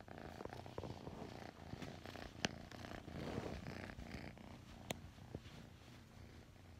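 A five-month-old kitten purring steadily, a fast low rumble close to the microphone. Two sharp clicks sound midway and about five seconds in.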